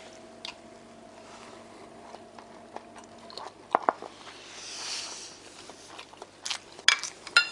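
A man chewing a spoonful of rice and soy-marinated egg, with soft mouth sounds. A few sharp clicks come about four seconds in and again near the end, and a soft hiss swells and fades about five seconds in.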